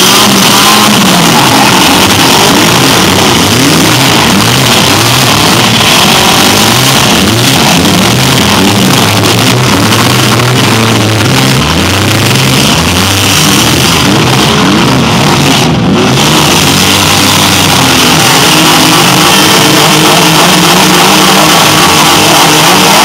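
Several demolition derby cars' engines revving at once, their pitches rising and falling over one another, under a loud, steady wash of noise.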